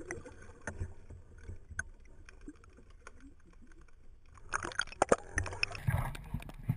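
Scattered knocks and clicks aboard a small fishing boat on the water, growing busier and louder about four and a half seconds in.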